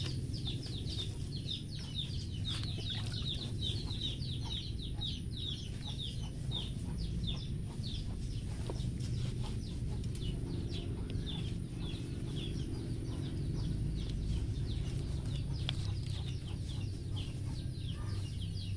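Birds peeping in a fast run of short, high, falling chirps, several a second, thinning out after the first half, over a steady low rumble.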